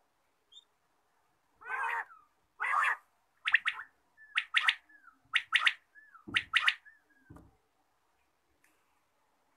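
A captive game bird calling. It gives two harsh calls, then a run of sharp paired notes about once a second, with softer downward-bending notes between them. Two dull low thumps come a little after the middle.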